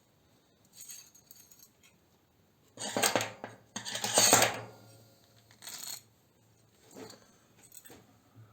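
Small metal parts clinking and clattering as they are handled and set down, in several short bursts. The loudest clatter comes about three to four and a half seconds in.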